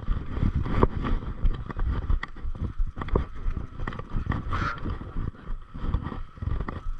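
Mountain bike rattling and knocking over a bumpy dirt trail, with wind rumbling on the microphone.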